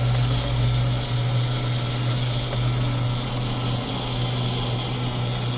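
Helicopter running steadily on the ground after landing, a constant low hum of turbine and rotor with a hiss above it.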